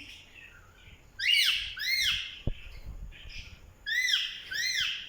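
Parrot calling: four loud, arched calls that rise and fall in pitch, given in two pairs. A single sharp knock sounds between the pairs.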